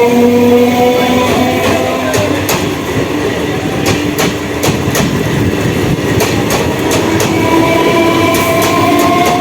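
EMU electric local train running past, its wheels clicking over rail joints, with the whine of the electric traction motors rising in pitch. The whine fades about two seconds in and comes back, rising, near the end.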